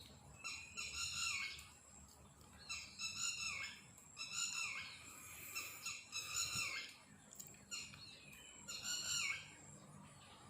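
An unidentified bird calling over and over, about six loud, shrill calls, each under a second long and dropping in pitch at the end.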